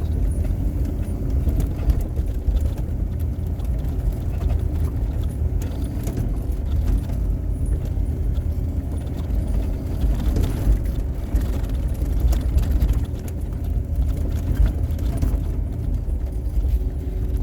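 Engine of a plow vehicle running steadily under load as it clears snow, a low even rumble with a few faint clicks and rattles.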